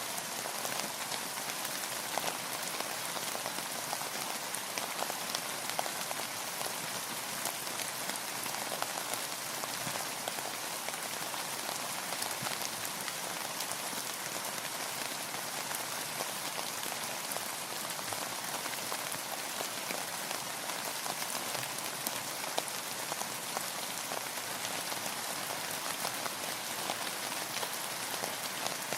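Steady rainfall, a dense even patter of drops striking a surface, with many fine individual drop ticks.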